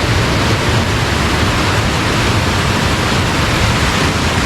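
Fast-flowing water rushing steadily and loudly, a stream swollen by rain.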